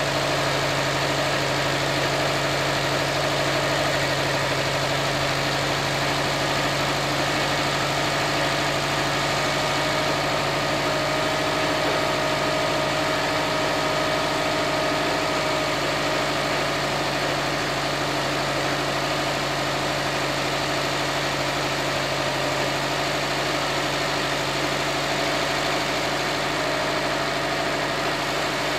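2007 Subaru WRX STI's turbocharged flat-four boxer engine idling steadily while still cold, warming up after a start in −10 °C frost.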